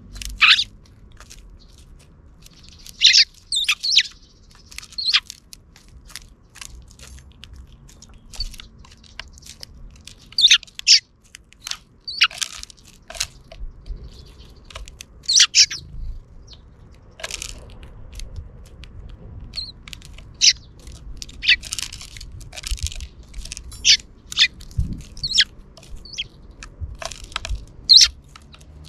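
Sparrows chirping: short, sharp chirps in irregular clusters with pauses between, coming more often in the second half.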